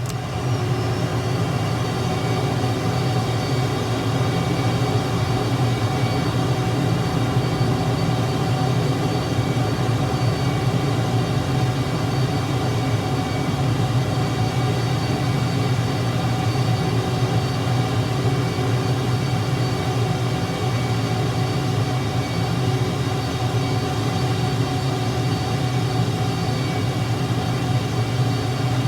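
An engine running steadily: a loud, even drone made of several fixed tones, holding the same pitch throughout.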